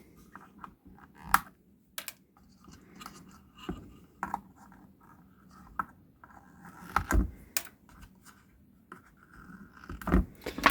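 Irregular small clicks, taps and scrapes of hand tools and components being worked on a loudspeaker crossover circuit board while parts are fitted and soldered in, with a few sharper clicks standing out.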